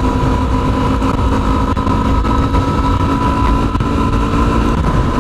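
Yamaha WR250R's single-cylinder engine running at a steady cruise, its note holding one pitch, over heavy low wind and road rumble.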